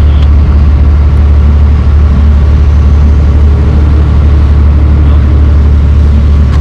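A barge's inboard engine running steadily under way, a loud, even low drone with no change in pace.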